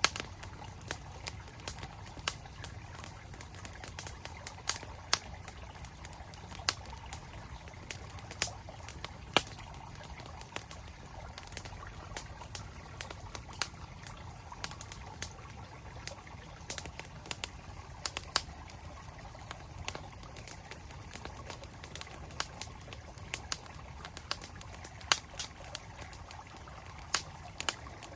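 Campfire crackling with many sharp, irregular pops, over the steady rush of a flowing stream.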